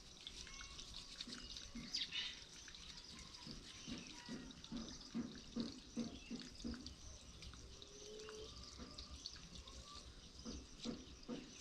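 Faint water dripping and splashing in irregular drops.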